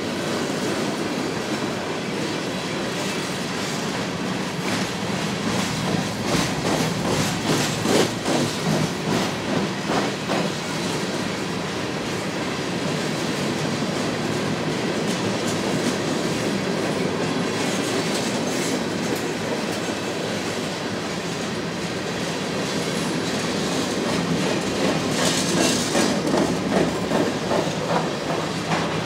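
Freight train of covered three-bay hopper cars rolling past at close range: a steady rumble of steel wheels on rail, broken twice by runs of clickety-clack as the wheel trucks pass.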